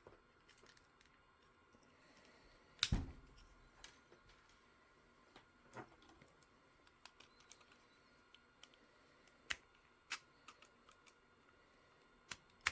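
Sparse clicks and taps of hard printed plastic parts and hand tools being handled, with one louder knock about three seconds in.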